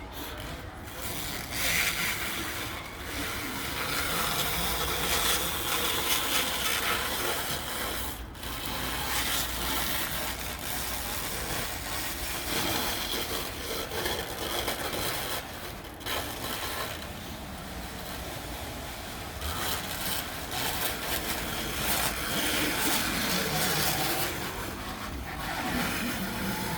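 Plastic wrap being pulled off the roll and stretched over a truck, rubbing and scraping unevenly.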